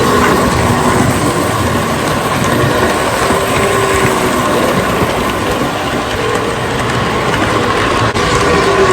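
Tinplate toy electric train running on its track: a steady whir of the motor and the rumble of the wheels, holding level throughout.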